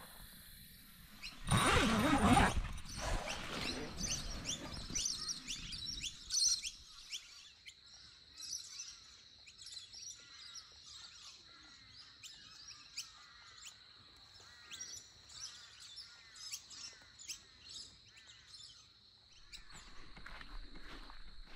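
Birds chirping and calling, many short calls in repeated phrases, over a steady thin high tone. A loud rushing burst of noise comes about two seconds in.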